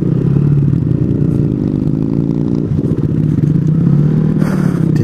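Small single-cylinder 125cc four-stroke motorcycle engine running steadily at an even, low speed while riding.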